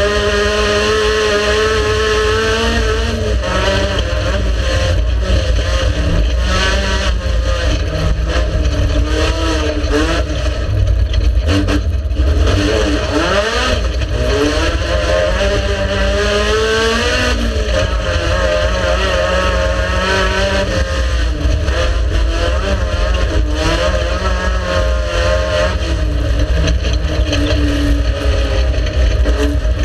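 Race car engine running hard, its pitch rising and falling again and again as it revs up and drops back.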